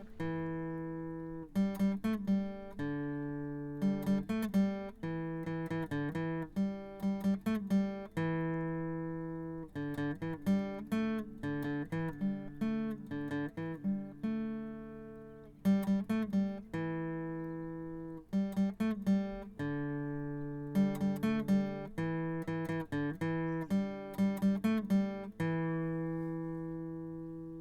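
Outro music: acoustic guitar picking ringing chords, in phrases of quick plucked notes that each ring out and fade.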